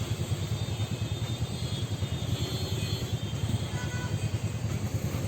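Motorcycle engine running at a steady cruise with wind rumble on the rider's microphone, a steady fluttering low rumble with no change in pace.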